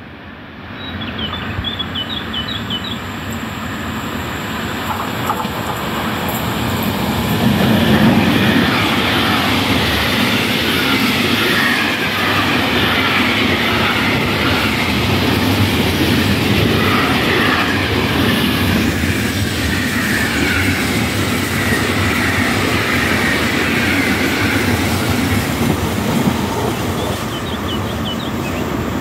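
Container freight train passing close by on the rails. The noise builds as it approaches and is loudest about eight seconds in. After that comes the steady rolling rumble and clatter of the loaded container wagons going past.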